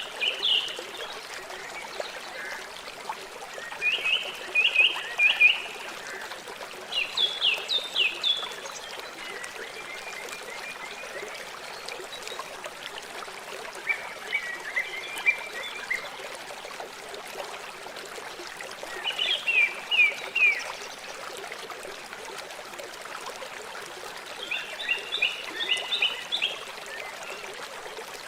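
River water flowing with a steady rush. About every three to five seconds a bird sings a short phrase of quick repeated notes over it.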